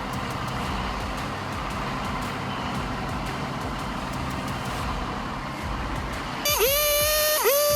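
Heavy truck engine running steadily, then about six and a half seconds in a loud horn blast that swoops up into a held note, breaks briefly and sounds again a second later.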